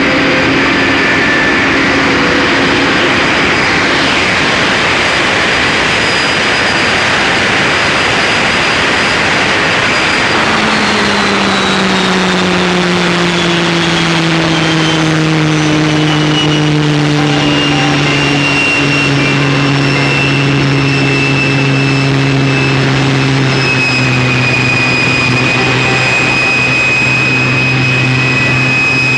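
Modified pulling tractor running flat out on a pull: a dense engine noise with a high whine. From about ten seconds in, the engine's pitch and the whine sink slowly and then hold steady.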